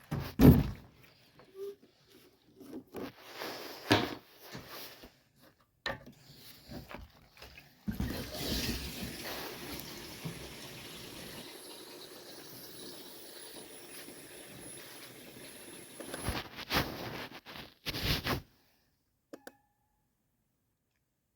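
Gasoline poured from a can into a generator's fuel tank: a steady pour lasting about eight seconds, with knocks and clatter of handling the can before and after it, then quiet near the end.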